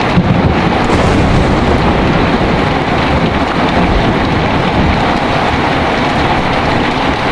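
Heavy rain falling steadily while thunder rumbles low underneath, the rumble heaviest in the first few seconds and easing toward the end.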